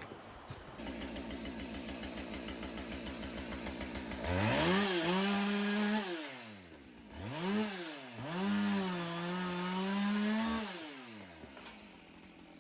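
Two-stroke chainsaw idling, then run up to full speed for about two seconds, eased off, and run up again for about two seconds more before dropping back to idle.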